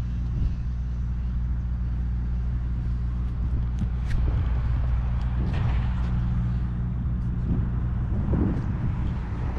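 Pickup truck's diesel engine idling steadily, a low even hum, with a few faint clicks over it.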